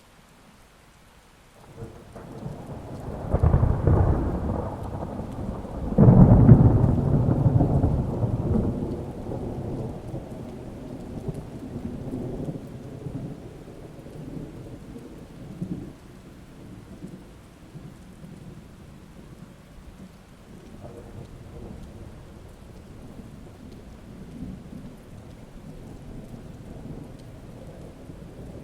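Thunder: a deep rumble builds to two loud peaks about three and a half and six seconds in, then rolls away over several seconds over steady rain.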